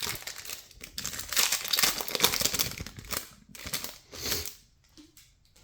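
Foil wrapper of a trading-card pack being torn open and crinkled: a dense crackling rustle for about three seconds, then a shorter crinkle, fading out near the end.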